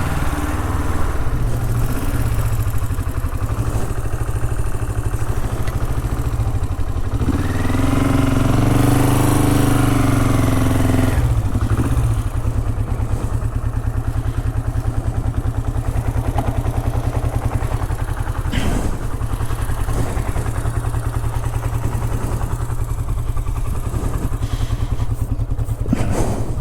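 Honda CL450's parallel-twin engine running steadily while riding, its revs rising and falling once about eight to eleven seconds in. A few sharp knocks come in the second half.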